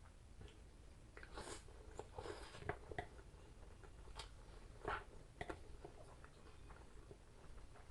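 A person eating close to the microphone: quiet chewing with scattered small clicks and a few brief, louder mouth or utensil sounds.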